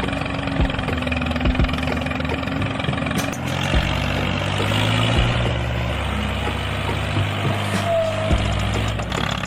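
Steady engine-like vehicle running noise with music mixed in, broken by scattered short knocks.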